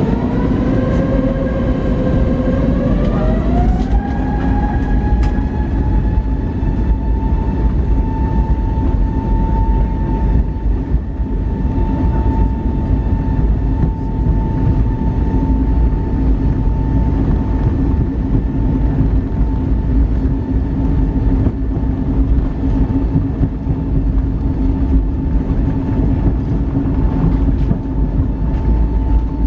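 Airbus A320neo's CFM LEAP-1A turbofan engines spooling up to takeoff thrust, heard from the cabin: their whine rises over the first four seconds or so, then holds steady over a loud low rumble as the aircraft makes its takeoff roll.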